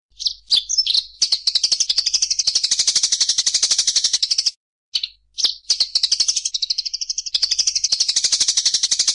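A songbird singing long, rapid rattling trills of fast repeated high notes, each trill a few seconds long, broken by short sharp call notes about halfway through.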